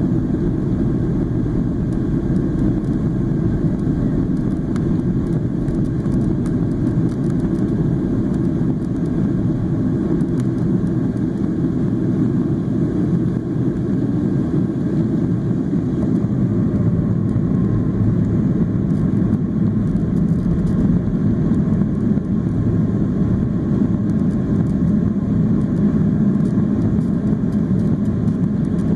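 Boeing 737-800 in flight, its CFM56-7B engines and the rushing air making a steady low roar as heard inside the passenger cabin.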